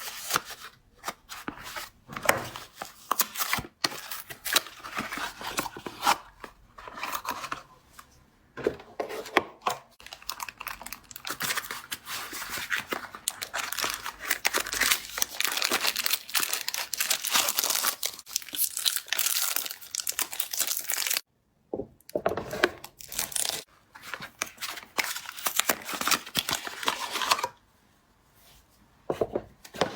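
Wrappers being torn and crinkled off bars of soap by hand: a dense run of ripping and crackling, broken by a brief gap about two-thirds through and growing quieter near the end.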